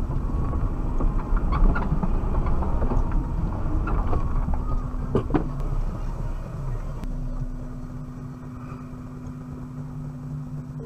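Suzuki Jimny heard from inside the cabin driving off-road: the engine runs loud with scattered knocks and rattles for several seconds, then eases off and goes quieter about seven seconds in.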